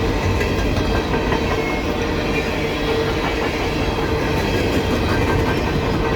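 Empty coal hopper cars of a CSX freight train rolling past: a steady rumble of steel wheels on rail, with faint clicks and a steady ringing tone.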